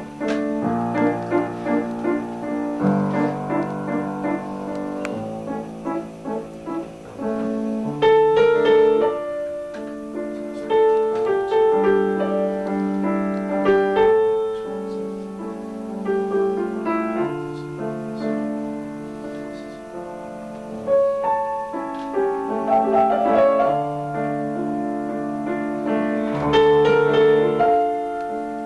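Solo piano playing a slow classical piece, a melody over held bass notes and chords.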